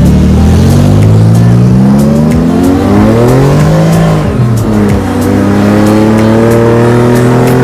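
Nissan Z's V6 engine accelerating hard at full throttle, its pitch climbing through a gear, dropping abruptly at a gear change about four seconds in, then climbing steadily again.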